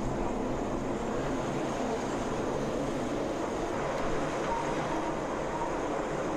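A train running with a steady, even rumble.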